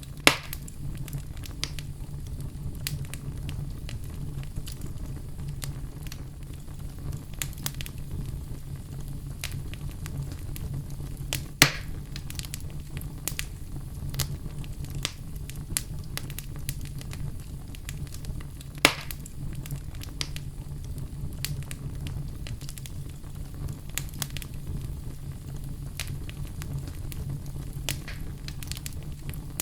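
Wood fire crackling steadily over a low, even rumble, with many small crackles and three louder sharp pops: one at the very start, one about 12 seconds in, one about 19 seconds in.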